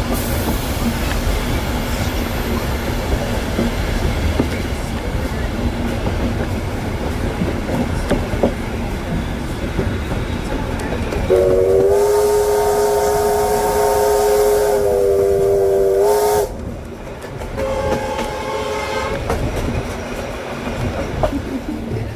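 Train running on the rails with a steady rumble. About eleven seconds in, a locomotive sounds one long chime whistle of about five seconds, its pitch lifting as it starts and ends, then a shorter, quieter blast two seconds later.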